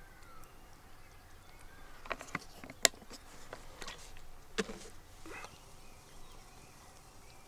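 A handful of sharp clicks and knocks, the loudest about three seconds in, with faint bird calls behind.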